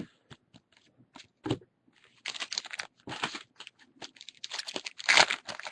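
Foil trading-card pack wrapper crinkling and tearing, with light clicks of cards being handled before it. The crinkling comes in two bursts, about two seconds in and again near the end.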